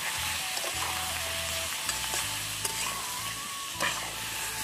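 Beetle larvae frying in hot oil in a wok, a steady sizzle, stirred with a metal spatula that gives a few light scrapes and taps against the pan.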